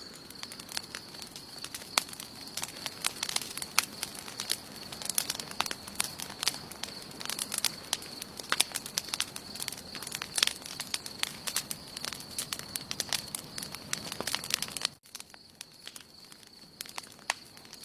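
Wood campfire crackling, with dense irregular sharp pops and snaps over a soft hiss and a steady high-pitched tone underneath. About fifteen seconds in, the sound drops off suddenly and the pops become sparser.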